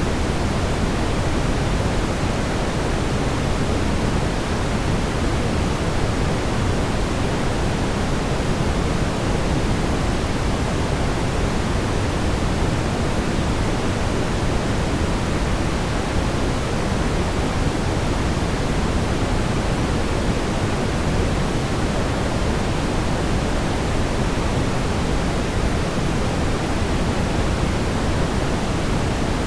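Steady brown noise: an even, unchanging rumbling hiss weighted toward the low end, with no breaks or events.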